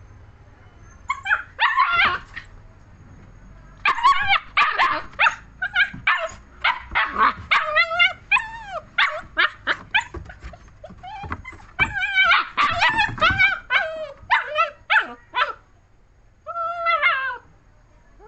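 German shepherd puppy barking in a long run of short, high-pitched barks and yelps that bend in pitch, with a couple of brief pauses.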